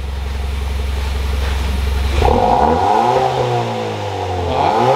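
2021 Hyundai i30 N-Line's engine through an XForce cat-back exhaust with its valves open: idling, then revved about two seconds in and falling back, with a second quick blip of the throttle near the end.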